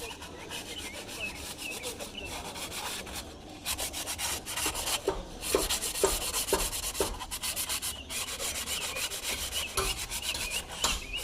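Hand scraping and rubbing on the deck of a Mercedes-Benz diesel engine block, cleaning off old head-gasket residue. The rough strokes repeat steadily, get louder about three and a half seconds in, and come sharper at about two a second in the middle.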